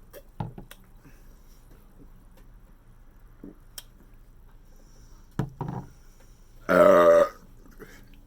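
One loud, drawn-out burp of about half a second near the end, from someone full after a big meal, after a few faint clicks.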